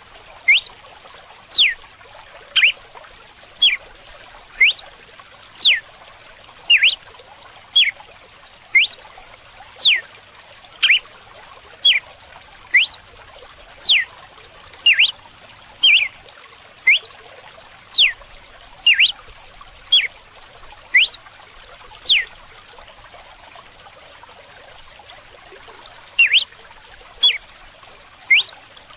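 Red-cowled cardinal (galo-de-campina) singing its whip song: sharp whistles sweeping steeply downward, alternating with short notes, about one a second, with a pause of a few seconds near the end. Running water trickles steadily underneath.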